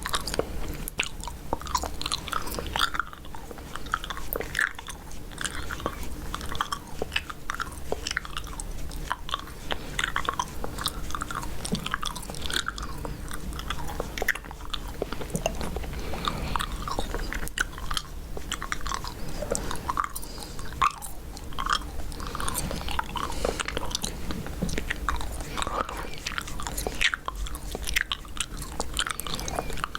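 Close-miked chewing gum: wet mouth smacks and clicks, several a second and unevenly spaced, over a faint steady low hum.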